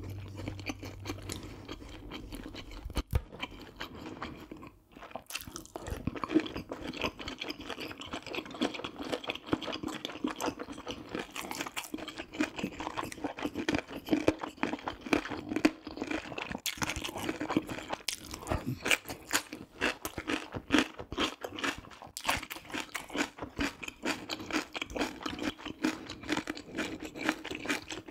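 A person chewing and biting spicy braised pork ribs with rice cakes and mushrooms: a steady, irregular run of mouth clicks and crunches, with a brief pause about five seconds in.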